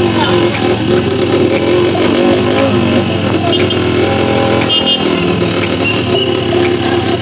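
Motorcycle engine running at a steady pace, with frequent sharp clicks and knocks over it.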